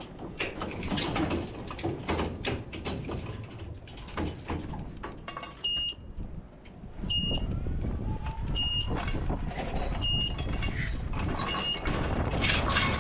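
Old forklift running while it pushes a trailer, with clanks and knocks, and the engine grows louder about halfway through. From about six seconds in, a backup alarm beeps five times, about once every second and a half.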